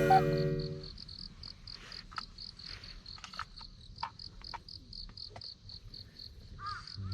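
Crickets chirping steadily, a high pulsed trill at about four pulses a second. In the first second a louder low buzzy tone sounds and breaks off, and a few faint clicks follow.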